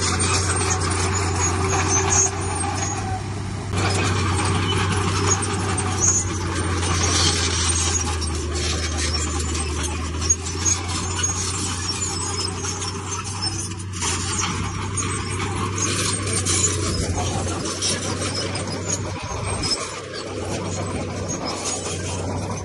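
Heavy diesel earthmoving machinery working: a steady low engine hum over continuous rattling, clanking and scraping. The hum fades about three-quarters of the way through while the rattling goes on.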